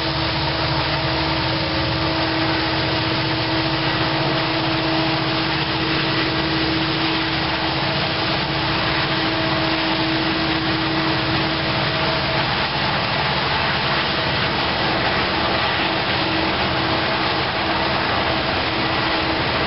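A coal train's hopper cars rolling past: a steady, even rumble of steel wheels on rail, with a steady drone running through most of it.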